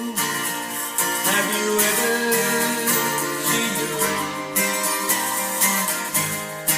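Slow instrumental music led by strummed acoustic guitar, with held notes under it and no singing.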